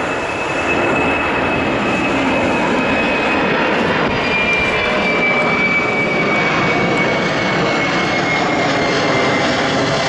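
Jet airliner's engines at takeoff power as it climbs out, a loud steady rushing noise with a high whine that slowly falls in pitch.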